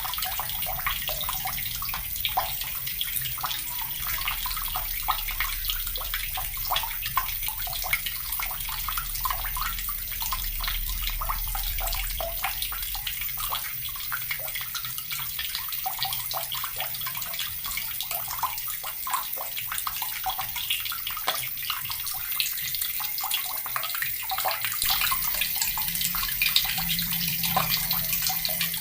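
Water running from a tap and splashing steadily into a basin or onto a hard surface, a continuous spattering stream with many small splashes.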